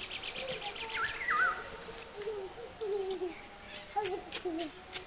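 Birds calling: a fast high chirping trill that stops about a second in, followed by a couple of short whistled notes and fainter low wavering calls.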